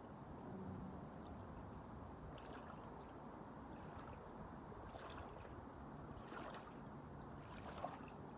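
Faint, steady rush of waves and wind, with a few small clicks and one brief sharper tick near the end.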